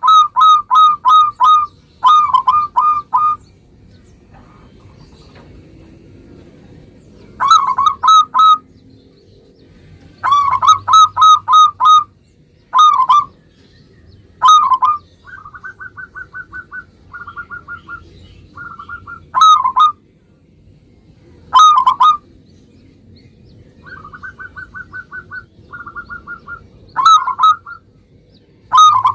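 Local zebra dove (perkutut) singing: loud bursts of three to six quick, clipped cooing notes, repeated after short pauses, with softer, faster trills of even pitch in a few of the gaps.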